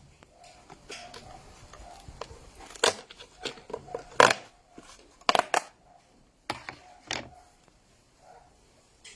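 A series of irregular sharp clicks and knocks, the loudest about four seconds in.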